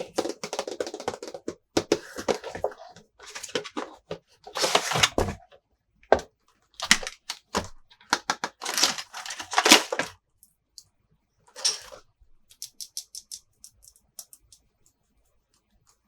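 Hands unboxing a plastic toy playset: bursts of crinkling and rustling packaging mixed with quick clicks and taps of plastic pieces. The loudest rustles come about five and nine seconds in, followed by a run of light ticks.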